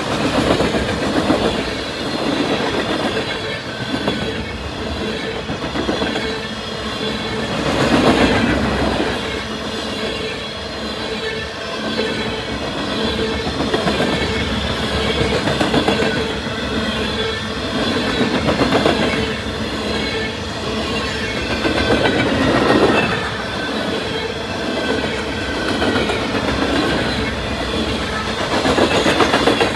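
CSX M363 freight train's cars rolling past, steel wheels clacking over the rail joints in a steady, repeating rhythm.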